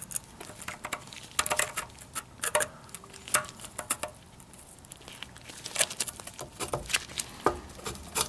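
Irregular light clicks and taps of metal hand tools and parts being handled, some in quick clusters.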